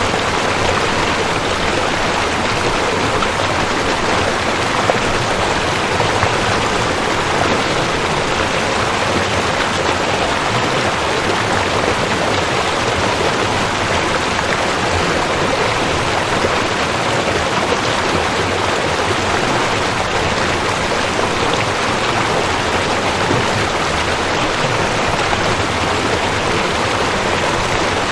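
Rushing creek: water running fast over rocks in a steady, unbroken rush.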